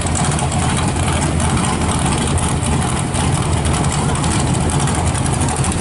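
No-prep drag racing truck's engine idling steadily, with a heavy low rumble.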